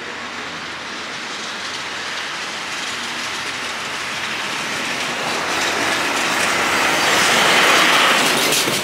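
Commuter train running on the rails, its wheel and track noise growing steadily louder and peaking near the end.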